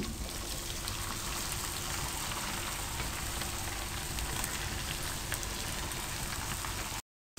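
Chopped okra sizzling in hot oil in a frying pan: a steady hiss with light crackles. The sound cuts out abruptly just before the end.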